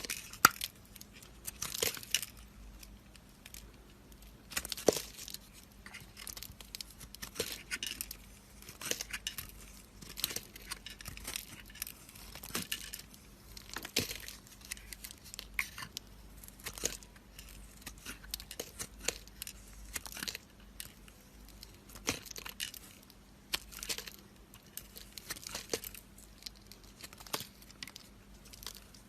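Dry soap being cut with a knife: a long run of crisp crackles and snaps at irregular intervals, the sharpest near the start and about five seconds in.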